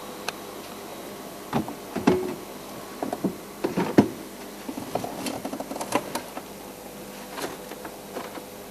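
A scatter of irregular sharp knocks and clicks over a steady background hiss, the loudest about two and four seconds in, with a busier run of small clicks around five to six seconds.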